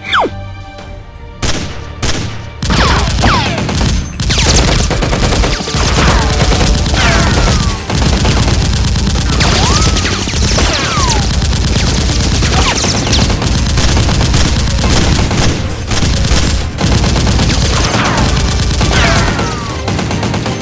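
Rapid, continuous gunfire sound effects, volley after volley, with music underneath.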